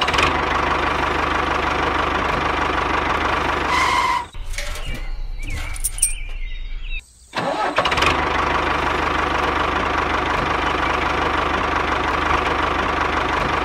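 Small engine running steadily, its sound broken by an edit about four seconds in and resuming about three seconds later.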